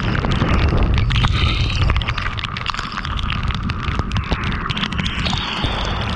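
Heavy rain hitting a moving car, a dense patter of drops over a deep rumble of road and wind noise. Slightly louder for the first two seconds, then steady.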